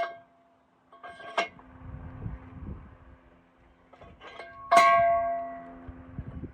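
Metal being struck three times, each strike ringing on like a bell; the third, about three-quarters of the way through, is the loudest and rings for over a second. A faint steady hum runs underneath.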